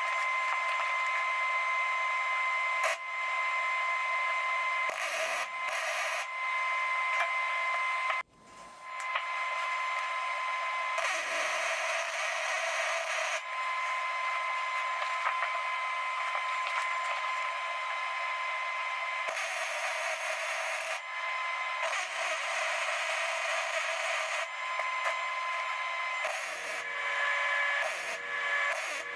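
A small high-speed power tool runs with a steady high whine while sheet metal is cut and shaped for a patch panel. The sound comes in short segments that switch abruptly every few seconds, with harsher, noisier stretches in between.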